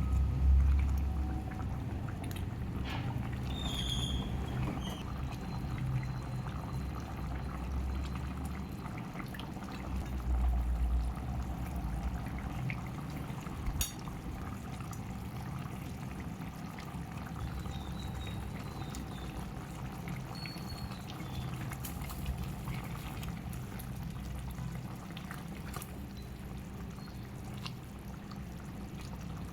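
Liquid in a cooking pot: a steady wet trickling and bubbling, with a few small clicks and knocks.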